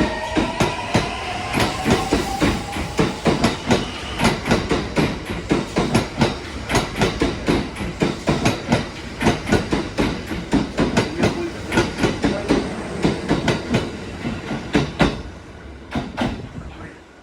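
Kintetsu 1A series electric train pulling away, its wheels clattering rapidly over rail joints and points as the cars go by. A rising motor whine dies out about two seconds in, and the clatter fades away near the end.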